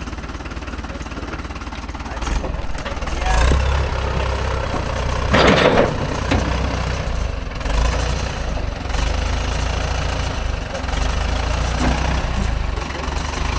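Tractor engine running steadily with a low rumble while the tractor is driven onto a trailer. About five and a half seconds in, a short, loud noise stands out over the engine.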